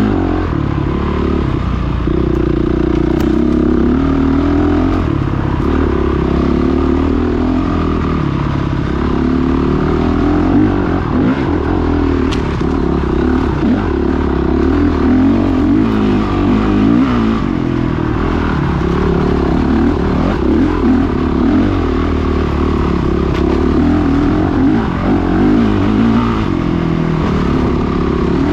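Off-road motorcycle engine running under way, its pitch rising and falling continuously as the throttle is worked.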